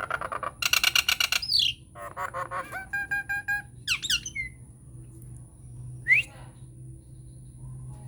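Nias hill myna calling. A burst of rapid harsh chatter, squeaks and repeated clear notes gives way to quick falling whistles. About six seconds in comes one loud, sharp rising whistle, then a lull.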